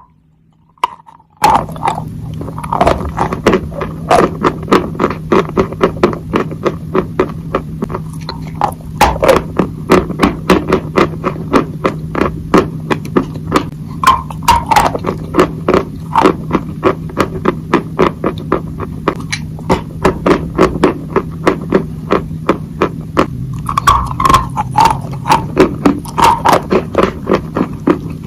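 Rapid sharp taps or clicks, several a second and uneven in strength, over a steady low hum; they start suddenly about a second and a half in.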